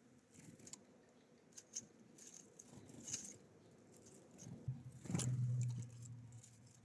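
Small birds feeding at a seed feeder: scattered light taps and clicks of pecking and shuffling. A low steady hum runs for a second or two past the middle and is the loudest sound.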